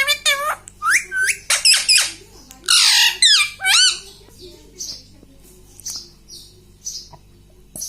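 Indian ringneck parakeet giving loud, high squawking calls in a rapid run for the first few seconds, then shorter, softer chirps every second or so.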